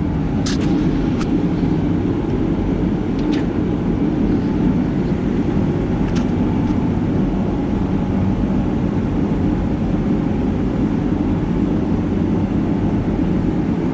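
Poulan Pro two-stroke chainsaw engine running at a steady speed, a loud even drone with no revving.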